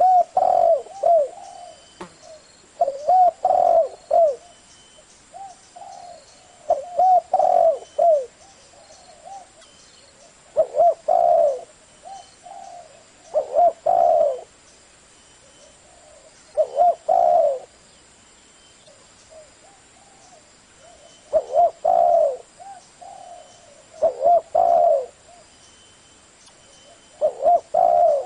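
Spotted dove cooing in the low 'thổ' voice: short phrases of a few arched coos, repeated every three to four seconds. It is a call used to rouse wild doves to answer.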